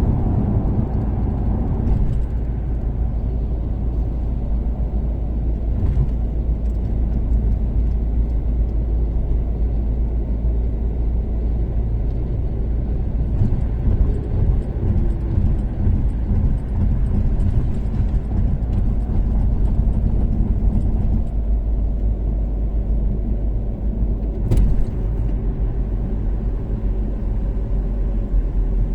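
Toyota Caldina ST246W with a 3S-GTE turbocharged four-cylinder cruising at steady speed on an expressway: a continuous low engine and road rumble. A single sharp click sounds about twenty-four seconds in.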